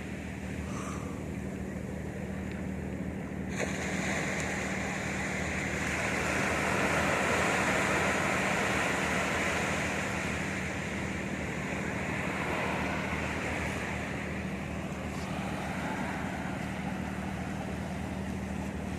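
Sea surf washing onto a beach, the wash swelling up for several seconds in the middle and then easing off, over a steady low hum.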